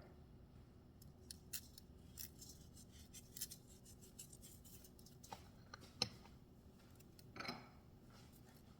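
Faint, irregular crackling clicks of a pepper mill being twisted to grind pepper, with a sharper knock about six seconds in and a short rustle near the end.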